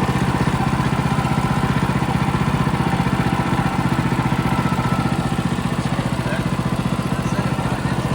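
Woodland Mills HM126 portable sawmill's small engine running steadily with an even, fast pulse.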